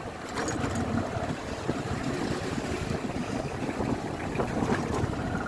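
Steady wind rush on the microphone over a Bajaj Discover motorcycle's single-cylinder engine running while it is ridden along.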